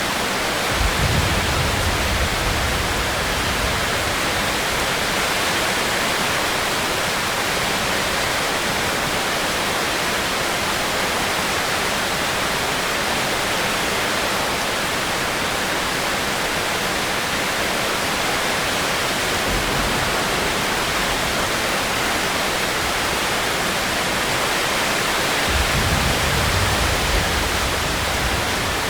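Steady rain, an even hiss with no break. A low rumble swells underneath twice, for a few seconds about a second in and again near the end.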